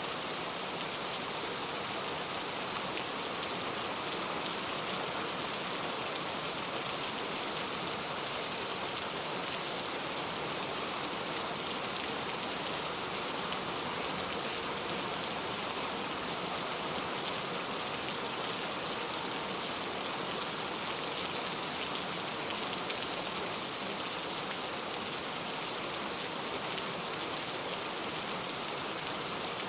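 Steady rain falling, an even hiss of many drops with fine pattering detail and no change in intensity.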